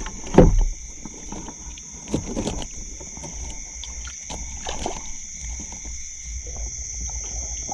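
Steady shrill chorus of insects and frogs, with irregular water splashing and sloshing about half a second, two seconds and five seconds in.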